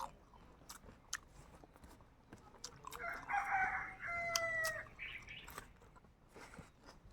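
A rooster crowing once, a call of nearly two seconds about three seconds in that dips slightly in pitch at its end, among scattered small clicks of chewing and biting.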